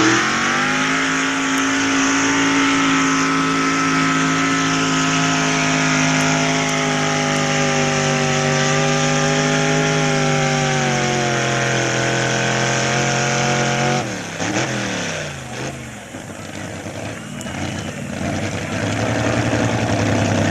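A two-wheel-drive pulling truck's engine at full throttle under load, held at high revs for about fourteen seconds with a slight sag in pitch, then falling off quickly as the throttle is let off. Another engine builds up near the end.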